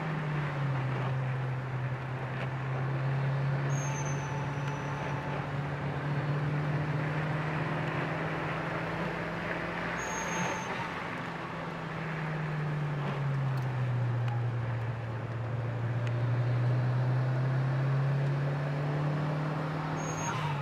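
Mitsubishi Lancer Evolution IV's turbocharged four-cylinder engine heard from inside the cabin, pulling at steady high revs, with the pitch dropping for a few seconds past the middle and climbing again. Tyre and road noise on wet tarmac lies under it, and three brief high squeaks come a few seconds apart.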